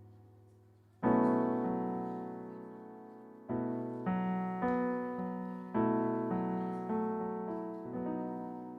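Piano playing the introduction to a song: a chord struck about a second in, then a run of chords about every half second from the middle on, each left to ring and fade.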